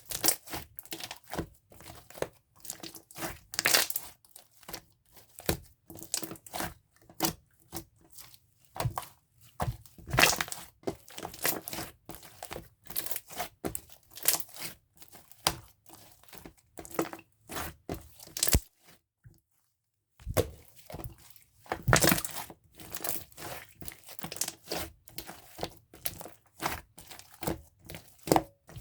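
Clear, jelly-textured slime being squished and pressed by hand: a steady string of sticky clicks and pops, with a short pause about two-thirds of the way through.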